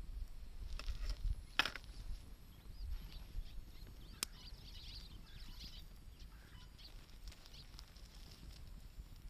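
Wood fire crackling, with two sharp pops about one and a half and four seconds in. Faint bird chirps sound in the background, over a low rumble.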